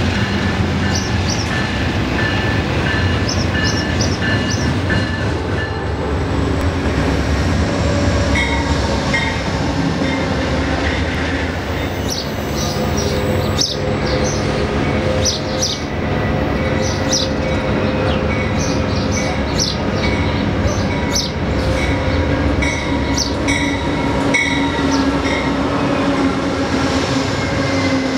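Trains rolling through a station: a steady heavy rumble of wheels on rail, with wheel squeal and clicking over rail joints. Near the end an Amtrak passenger train led by a GE Genesis diesel locomotive passes close by.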